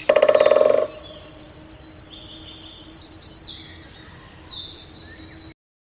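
A bird singing: repeated high, fast trilled phrases. The song opens with a loud, low buzzing rattle lasting under a second and stops abruptly near the end.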